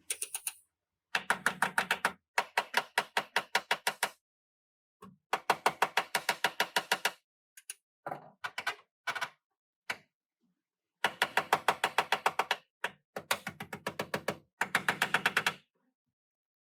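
Rapid runs of sharp taps, about ten a second, each run lasting one to two seconds with short pauses between: hammering on car body sheet metal.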